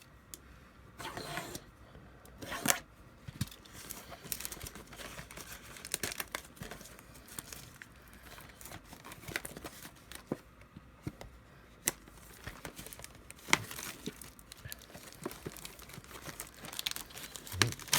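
Plastic wrapping on a trading-card blaster box being torn and crinkled, with scattered sharp clicks and rustles as the box is handled and opened.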